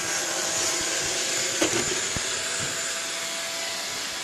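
Roomba robot vacuum running, its suction fan and brushes giving a steady whir with a few steady tones, and one brief knock about a second and a half in.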